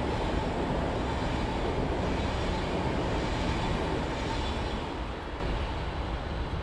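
High-speed train passing at speed on snow-covered track: a steady rushing noise of the cars going by, dipping slightly about five seconds in.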